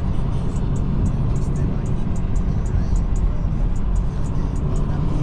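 Music with a steady beat playing on the car stereo inside the cabin of a moving BMW 540i, over a low rumble of road and engine noise.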